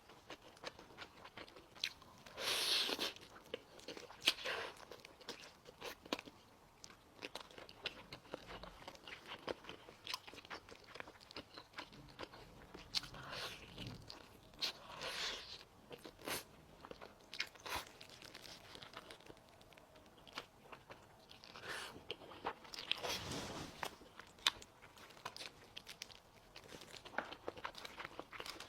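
Close-miked eating of spicy braised chicken: chewing with many short, sharp mouth clicks and smacks, and several louder bites spread through.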